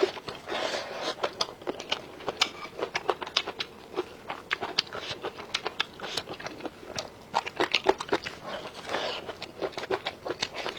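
Close-miked eating: wet chewing and crunching of food with sharp mouth clicks and smacks, several a second, without pause.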